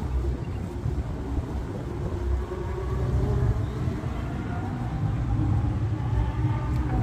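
Low, steady rumble of a car engine idling.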